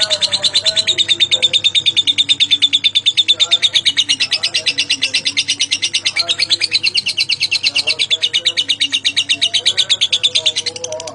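Lovebird's long ngekek: a rapid chattering trill of about ten high notes a second, held unbroken for about eleven seconds before it stops near the end. Fainter low notes sound beneath it.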